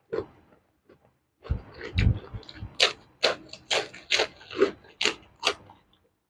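Close-miked chewing of crunchy food: crisp crunches about two a second from about three seconds in, after a low muffled rumble around two seconds in.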